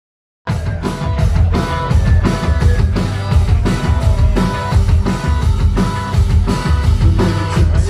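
Post-punk band playing live in the instrumental opening of a song: heavy bass, electric guitar and a steady drum beat of about three hits a second. The music cuts in suddenly about half a second in.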